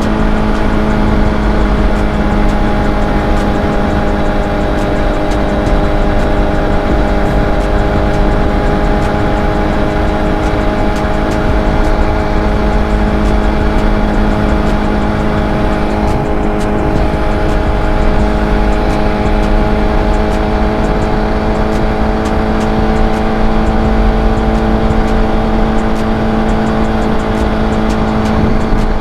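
Kawasaki ZX-6R inline-four engine running at a steady cruise, its pitch holding nearly level with only slight rises and dips, over a constant wind rush.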